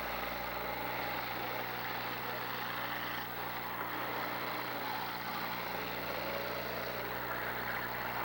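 Many demolition derby cars' engines running at once in a steady din, with a steady low hum underneath.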